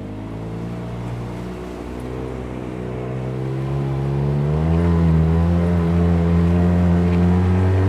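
Arctic Cat Wildcat Trail 700 UTV's single-cylinder engine pulling under throttle, its pitch rising slowly as the machine speeds up and growing louder, with a further rise in pitch about halfway through before it holds steady.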